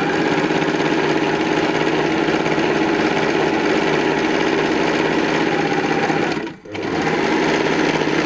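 Janome 393 electric sewing machine running at speed, test-sewing a stitch pattern after its hook timing has been reset. It stops briefly about six and a half seconds in, then starts again.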